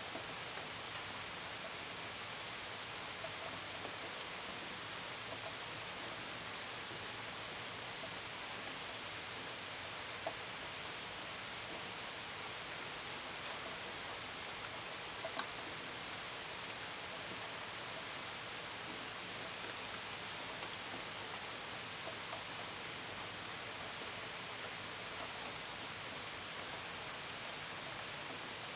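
Steady rain, with the pitter-patter of drops on a window and gutters and faint, short, high cricket chirps repeating about once a second. A few louder single drips stand out, about ten and fifteen seconds in.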